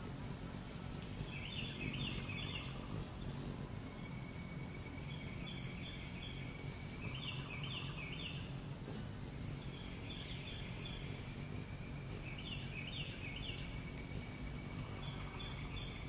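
A songbird singing a short phrase of quick high notes over and over, about every two to three seconds, over a steady low outdoor rumble.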